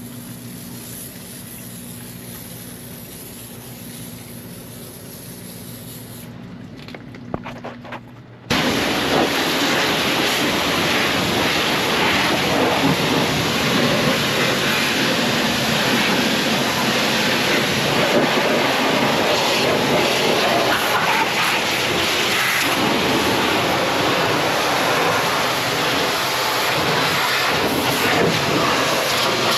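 Pressure washer running with a steady engine tone. About eight seconds in, after a few clicks, the spray starts suddenly: a loud, steady hiss of high-pressure water blasting a truck's rear axle housings, which lasts to the end.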